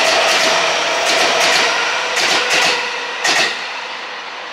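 Keiyo Line electric train running on the rails, its wheels clacking in pairs over rail joints several times over a steady hum and whine. The knocks stop and the running noise quietens after about three and a half seconds.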